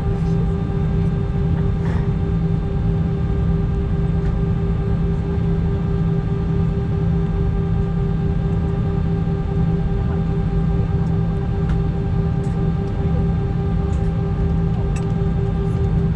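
Airbus A320 cabin noise with the engines running: a steady low rumble under a constant layered hum.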